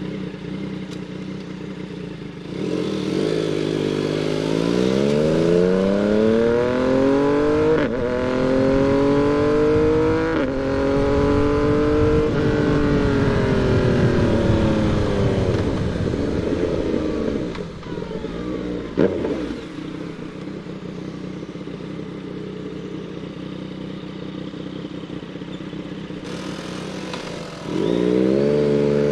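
Yamaha MT-09 inline three-cylinder motorcycle engine pulling away from idle and accelerating up through several gears, its pitch climbing and dropping back at each shift. It then rolls off and runs low and steady, with a single sharp click in the middle, before pulling away again near the end.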